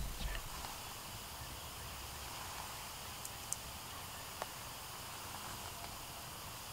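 Quiet outdoor ambience with a faint steady hiss, broken by a few soft, sharp ticks: two close together about three and a half seconds in and one more about a second later.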